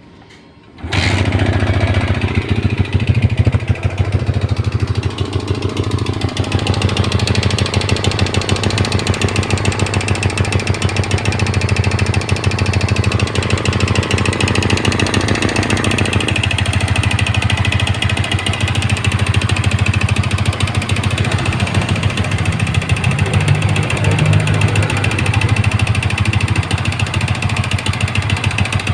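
Yamaha Vixion motorcycle's single-cylinder four-stroke engine running steadily at idle with a rapid, even pulsing, coming in about a second in. The owner finds the engine sound abnormal and worrying.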